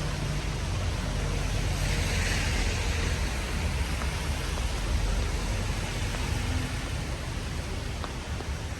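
Steady rain hiss on a wet street with a low traffic rumble, swelling briefly about two seconds in.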